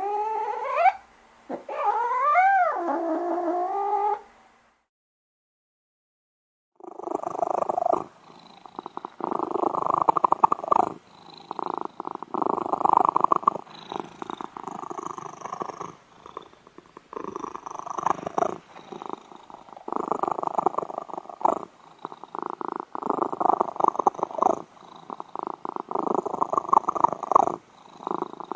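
A cat's drawn-out meowing calls, bending up and down in pitch. After a short silence, loud, fast purring rises and falls with each breath, every second or two.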